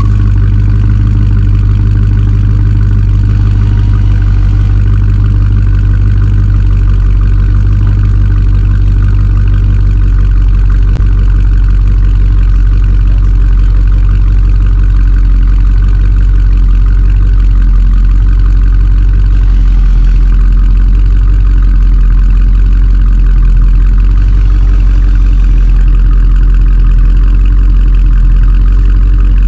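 A vehicle engine idling steadily and loud, with a deep, even hum that hardly changes.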